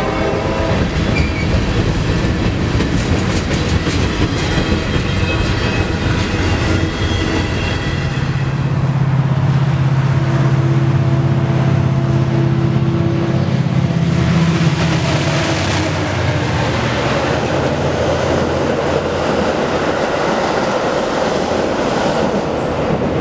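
A long mixed freight train rolling past, its wheels clacking over the rail joints. About eight seconds in, this gives way to a steady low drone as a Metra commuter train of bi-level gallery cars approaches and rolls by, with a road vehicle passing close near the middle.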